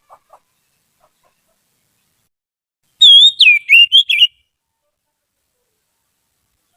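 Oriental magpie-robin (kacer) singing one loud whistled phrase of slurred, swooping notes about three seconds in, lasting just over a second.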